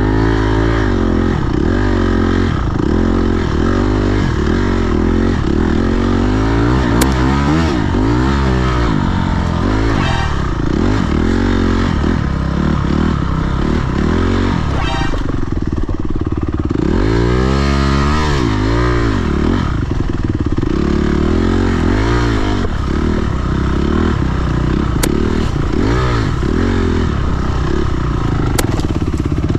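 Dirt bike engine revving up and down over and over, the pitch rising and falling many times, as the rear wheel spins for grip on a slippery mud hill climb.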